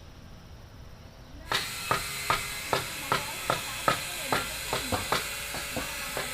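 Hammer blows on wood, even and steady at about two or three a second, each with a short ring, starting abruptly about a second and a half in.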